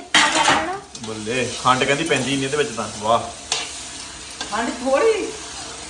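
Tadka frying in a wok, a steady sizzle, with a voice talking quietly for a couple of seconds and a few light clicks.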